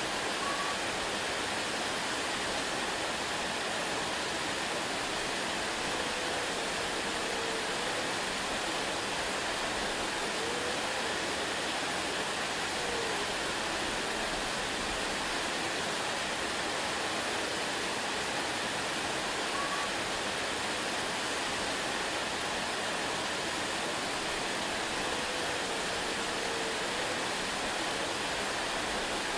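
Waterfall rushing in a steady, unbroken roar of falling water, with a few faint short whistled notes now and then.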